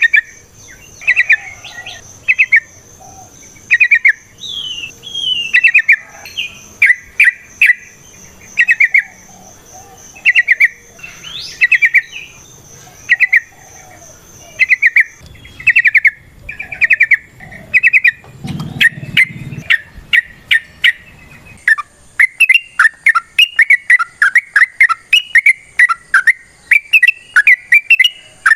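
Yellow-vented bulbul singing: short bubbly phrases about once a second, breaking into a faster, almost continuous run of song about three quarters of the way through. A faint steady high-pitched tone runs behind it.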